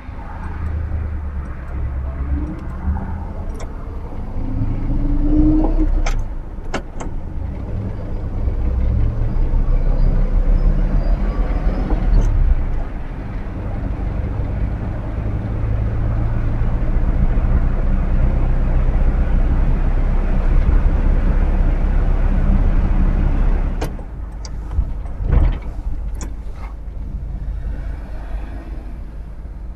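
1959 Chevrolet Bel Air's 348 V8 driving, with a steady low engine and road rumble that shifts in pitch as it goes. About 24 seconds in it eases off, with a few sharp clicks and one short knock.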